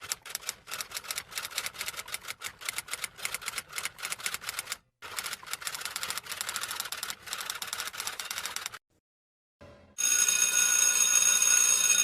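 Rapid, irregular clacking, several strokes a second, with a short pause about five seconds in, stopping near nine seconds. About ten seconds in, a steady, bright ringing starts and holds for about two seconds.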